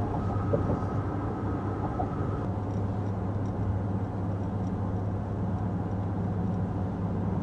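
Steady engine hum and road noise heard from inside a car's cabin while driving.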